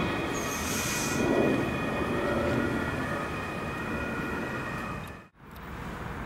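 Electric S-Bahn multiple unit running past, with several steady high tones from its traction equipment over wheel-on-rail noise and a brief hiss about half a second in. The sound cuts off abruptly about five seconds in, leaving quieter background.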